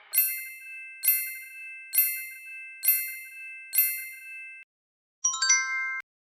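Bright electronic chime sound effect: five ringing dings about a second apart, then a quick flurry of shorter dings that cuts off suddenly.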